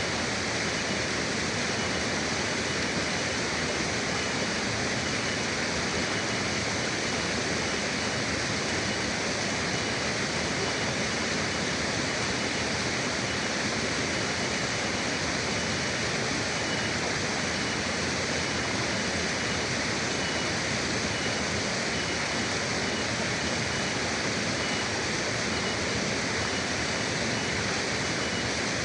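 A river flowing: a steady, even rush of water with no breaks.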